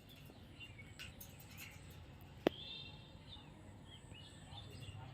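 Faint, scattered bird chirps and short twittering calls, with a single sharp click about two and a half seconds in.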